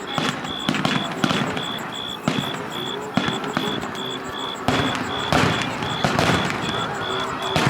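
Fireworks display: aerial shells bursting in irregular bangs and crackles, several a second at times.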